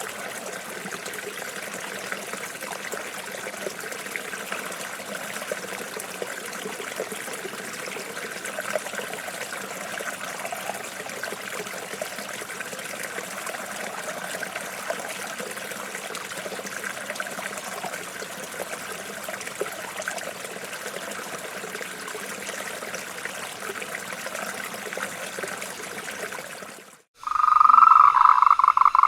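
Shallow stream trickling and babbling steadily. About 27 seconds in it cuts off, and a frog starts croaking loudly in fast pulsing calls near the end.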